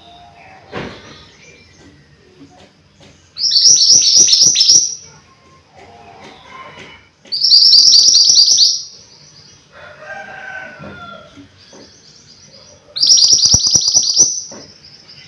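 A mantenan gunung songbird singing in full voice: three loud phrases, each a rapid run of high falling notes lasting about a second and a half, with quieter calls between them.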